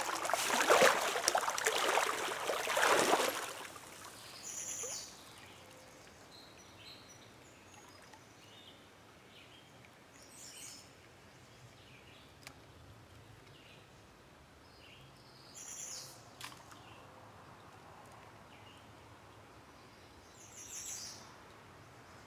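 Loud splashing and rushing of water for the first three seconds or so. Then a quiet stream background with a songbird giving a short high call about every five or six seconds.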